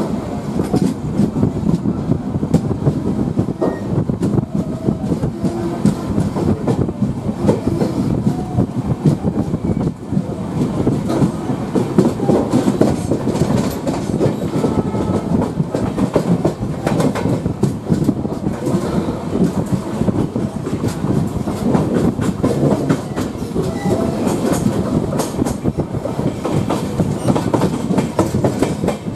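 Passenger train running at speed, heard from on board: a steady rumble of wheels on the track with a constant rapid clatter of clicks.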